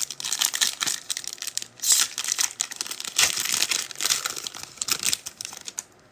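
Foil wrapper of a trading card pack crinkling, with a rapid, irregular run of crackles as it is torn open and handled.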